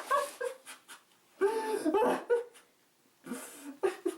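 A man's voice making wordless vocal sounds in three outbursts with pauses between, the middle one the loudest.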